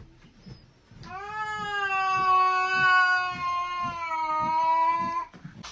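Cat giving one long, drawn-out meow of about four seconds, starting about a second in, steady in pitch and dropping off at the end.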